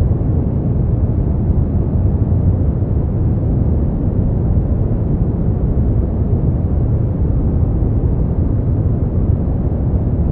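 Brown noise: a steady, deep hiss whose weight lies in the low end.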